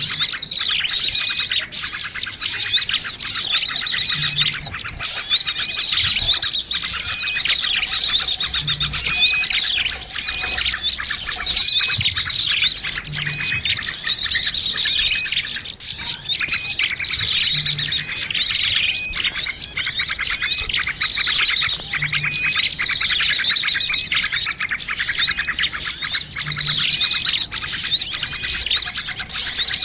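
A dense, busy chorus of many small birds chirping and twittering rapidly and continuously, a combined bird-lure (pikat) recording meant to draw small birds in. A soft low blip recurs about every four and a half seconds.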